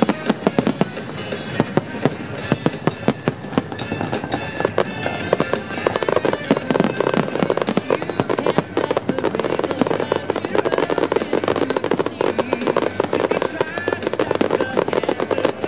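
Fireworks display: a rapid, near-continuous run of bangs and crackling from many aerial shells and low-level effects going off at once, with music playing underneath.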